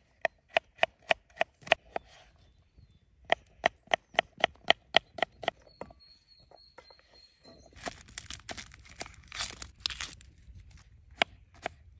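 A knife chopping vegetables on a cutting board in quick, even strokes, about three a second, in two runs. It is followed by a few seconds of rustling and scraping, and the chopping starts again near the end.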